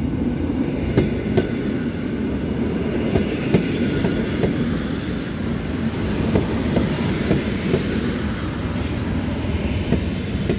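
EN57 electric multiple unit passing at close range: a steady rumble with its wheels clacking over the rail joints, and a brief hiss about nine seconds in.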